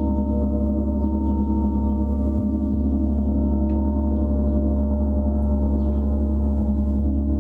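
A gong drone: many overlapping low tones held at an even level, with no separate strikes.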